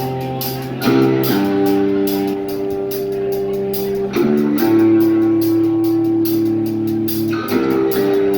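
Live guitar music playing a song's instrumental intro: held chords that change about every three seconds over a steady high ticking beat.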